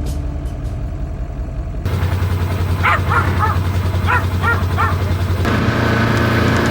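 A dog gives a quick series of about six short barks over a steady engine running at low speed.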